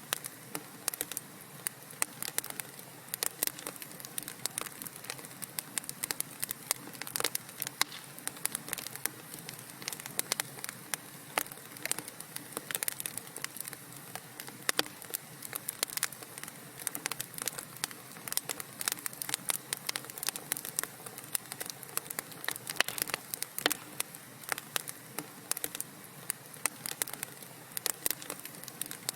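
Wood fire burning in a fireplace, crackling steadily with a dense, irregular run of small sharp pops and snaps over a soft hiss.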